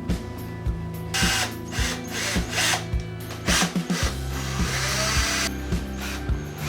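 Small electric hand drill or rotary tool running in short bursts, spinning up with a brief rising whine, over background music with a steady beat.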